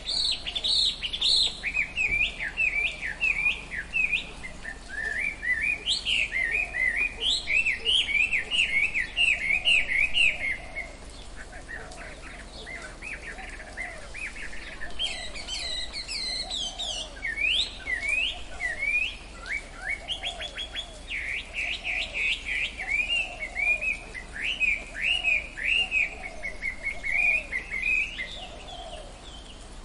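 Birds chirping and twittering in fast, dense runs of short, high notes. The chatter eases off for a few seconds in the middle, then picks up again.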